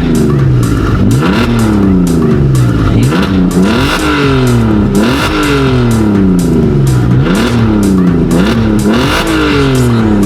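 Straight-piped Audi TT 3.2 V6 exhaust, revving again and again: each time the engine note shoots up quickly, then slides back down, roughly once a second.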